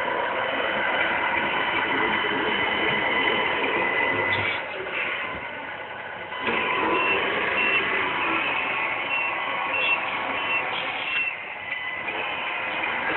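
A 1/14-scale Tamiya radio-controlled Scania 8x4 truck running, with a steady mechanical whir that drops back briefly in the middle. About seven seconds in, a run of short high beeps, about two a second, like a reversing alarm, sounds for around four seconds.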